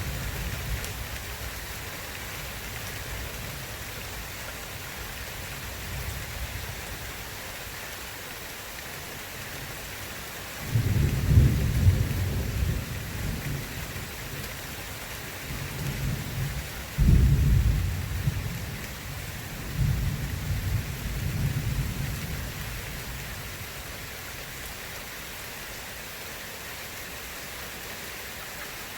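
Steady rain hissing, with thunder rumbling low. A faint roll fades just after the start, then several loud rolls follow, between about 11 and 22 seconds in.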